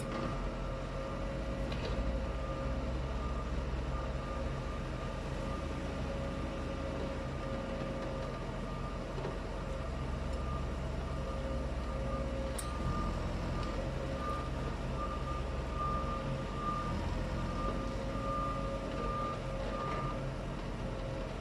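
A heavy vehicle's reversing alarm beeping over and over, with the vehicle's engine running underneath.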